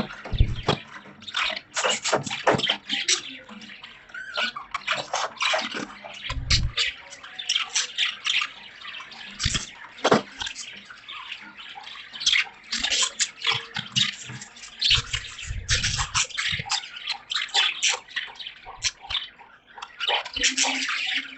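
Budgerigars chattering and chirping in fast, clicky bursts, with a few low thumps.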